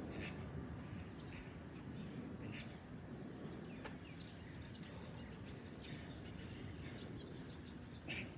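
Small birds chirping in short, scattered calls over a steady low background noise, with one louder call near the end.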